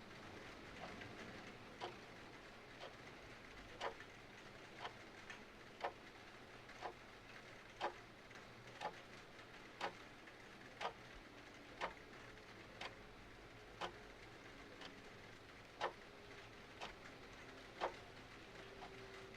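Mechanical clock ticking, about one tick a second, over a faint steady hiss of rain and fireplace.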